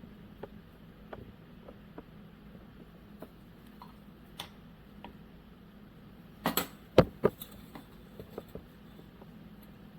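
Hard objects being handled: scattered light clicks and taps, then three sharp knocks close together about two-thirds of the way through, over a faint steady hum.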